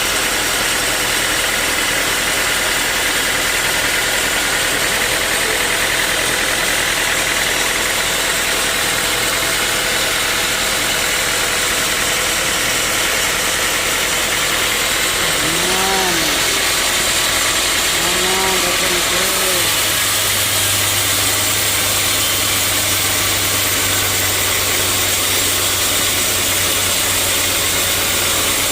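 Sawmill machinery running steadily: a constant engine hum under a loud, even hiss, with the hum changing about two-thirds of the way through.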